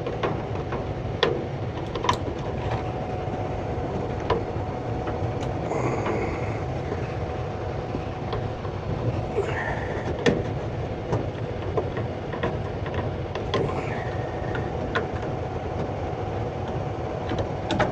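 Scattered sharp clicks and light knocks of tools and metal parts being handled over a steady low mechanical rumble with a faint steady hum.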